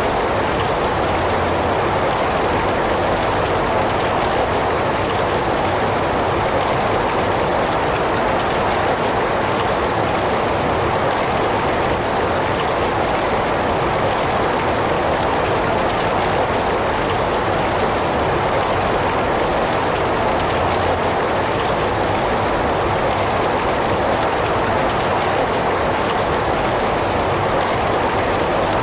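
Heavy rain falling steadily: an even, unbroken hiss of rain with no breaks or separate sounds.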